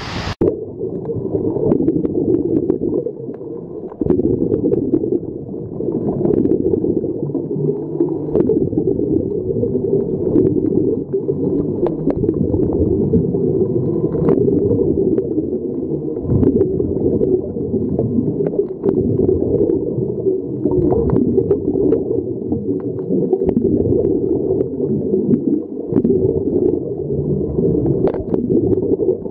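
Muffled underwater sound heard through a submerged waterproof camera: a steady low rumble of moving water with scattered faint clicks and crackles.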